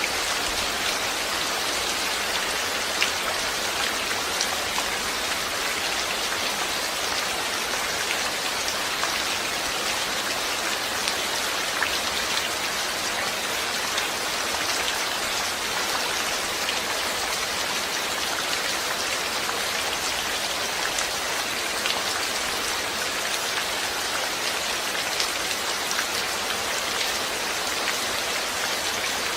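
Steady rainfall, with a dense even hiss and many individual drops ticking on a surface.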